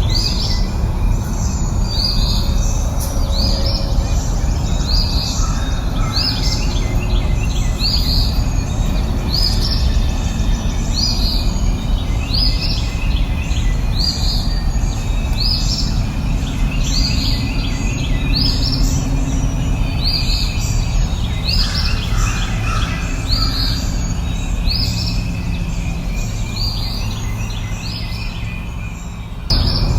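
A songbird repeating one short rising call, about every second and a half, over a steady low background rumble of outdoor noise.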